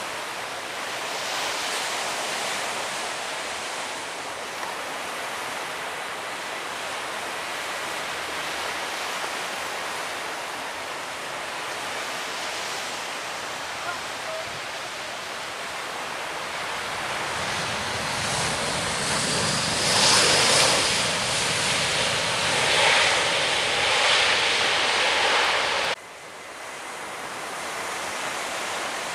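Surf breaking on a beach, a steady rushing wash with some wind. Past the middle the rush grows louder for several seconds, then cuts off suddenly and drops back to quieter surf.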